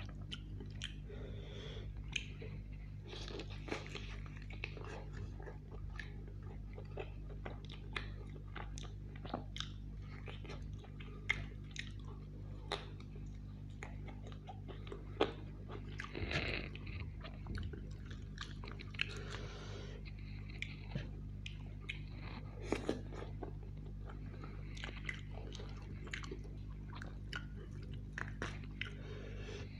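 A person chewing and biting roast chicken, with many short, sharp clicks of teeth and mouth scattered throughout, over a steady low hum.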